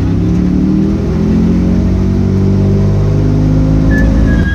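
Mid-mounted Honda V6 in a 1967 Ford Mustang race car, heard from inside the cabin, pulling away at low speed, its engine note rising as it accelerates. A short high whistle comes in near the end.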